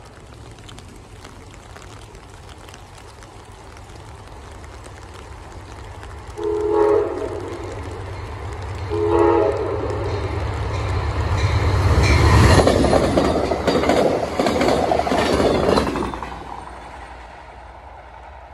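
Approaching passenger train sounds two short blasts on its multi-note horn, one about six and a half seconds in and another two seconds later. It then passes with a loud rush of wheel noise and rail clatter that fades as it moves away.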